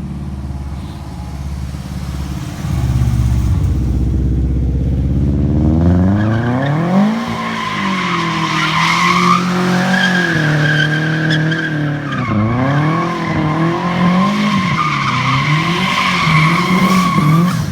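Big-turbo Subaru engine idling low, then revving hard about five seconds in and held at high revs, rising and falling as the rear-wheel-drive car drifts, with tyres squealing over it.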